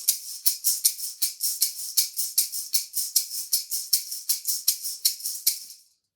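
A maraca shaken in a quick, even rhythm, about five rattles a second, stopping a little before the end.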